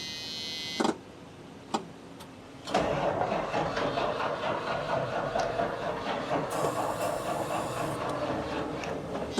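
An old Mack truck's engine being turned over by its starter for several seconds without catching, after a clunk and a click. It is cranking on weak batteries, which the owners suspect have been drained or have a loose negative post.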